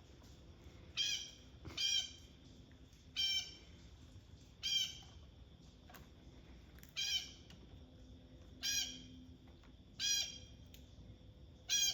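Blue jay squawking: a harsh call repeated about eight times, one every one to two seconds.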